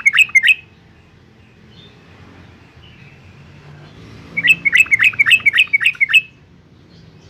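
Yellow-vented bulbul singing. The end of one bubbly phrase of quick notes stops about half a second in, and a second phrase of rapid, bubbling notes follows from about four to six seconds in.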